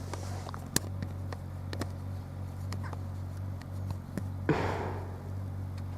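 Steady low hum inside a stationary car, with scattered small clicks and a brief rustle of movement about four and a half seconds in. No train is audible yet.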